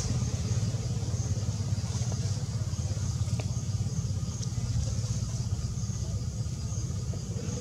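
A steady low rumble, with a faint high buzz pulsing about twice a second above it.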